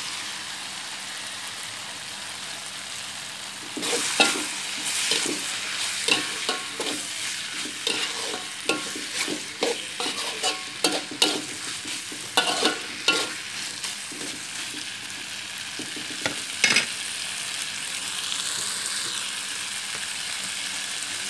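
Cuttlefish frying with a steady sizzle in a stainless steel wok. From about four seconds in to about thirteen seconds, a metal utensil scrapes and clinks against the pan again and again as the pieces are stirred, with one more scrape near the end.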